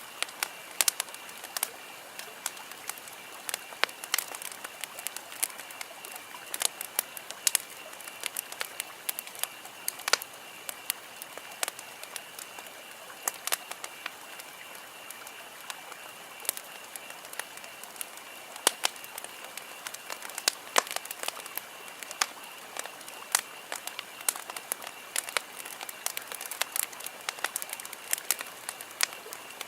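Wood campfire crackling, with irregular sharp pops and snaps several times a second over a steady faint high-pitched background hiss.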